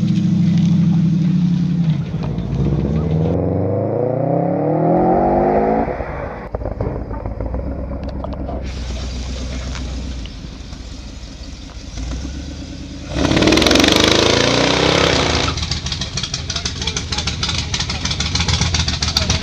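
Car engines with loud exhausts: one revs and accelerates away, its pitch climbing steadily for several seconds, then drops to a lower rumble. A second loud, rasping burst of hard revving comes about two-thirds of the way through, followed by engines rumbling.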